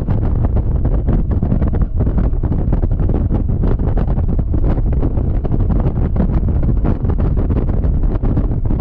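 Wind buffeting a GoPro action camera's microphone on a moving Yamaha XMAX scooter: a loud, steady low rumble with a rapid crackle over it.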